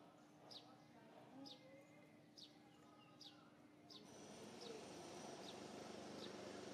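Faint outdoor background in which a bird repeats a short, high, falling chirp about once a second; the background hiss grows a little louder about four seconds in.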